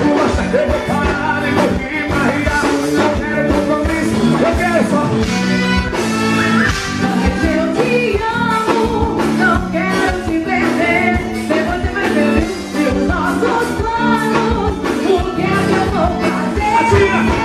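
Forró band playing live with a steady dance beat and a melody line over it.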